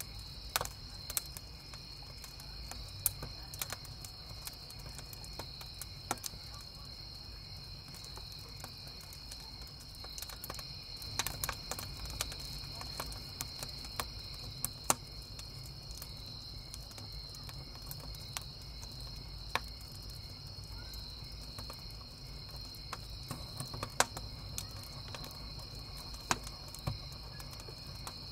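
Crickets chirping in a steady high trill, while a wood campfire crackles with scattered sharp pops and snaps over a low rumble.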